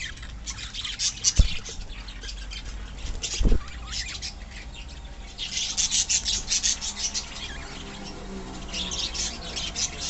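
A colony of small pet parrots chattering in rapid, high-pitched chirps that come in clusters. Two dull low thumps sound about one and a half and three and a half seconds in.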